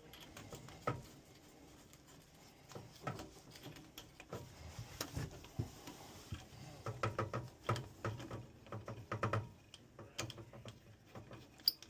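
Scattered light clicks and knocks of hand tools and metal pipe fittings being handled while a gas pressure regulator is plumbed in, with a busier run of them from about seven to nine and a half seconds in.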